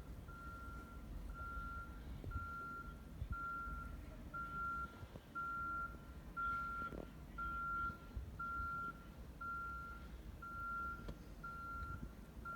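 Vehicle backup alarm beeping steadily at one pitch, about once a second, over a low rumble.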